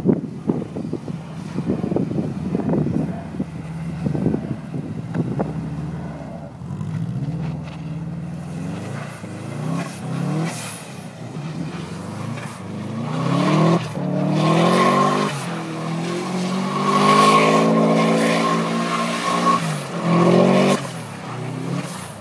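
Subaru's flat-four boxer engine revving hard and dropping back again and again as the car spins doughnuts, the engine note climbing and falling several times in the second half, with a steady high whine during the loudest revs.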